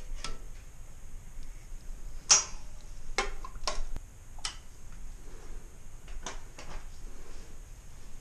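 Irregular sharp clicks and knocks, about eight spread over several seconds, the loudest a little over two seconds in.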